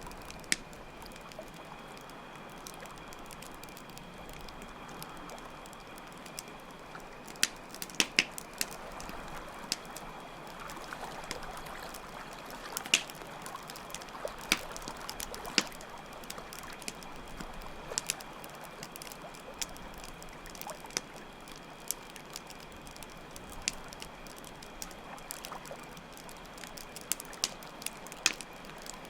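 Campfire crackling, with scattered sharp pops over a steady trickle of running water, and crickets chirping in a steady high drone.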